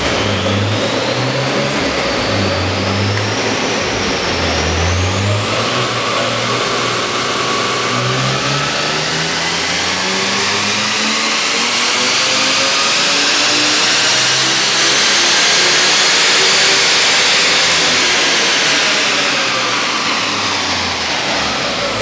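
Supercharged BMW M3's 3.2-litre straight-six engine making a full-throttle power run on a chassis dyno: the engine note climbs steadily from about five seconds in to a peak near seventeen seconds, then falls away as the throttle is released. A high whine from the Vortech V-3 centrifugal supercharger rises and falls with the revs.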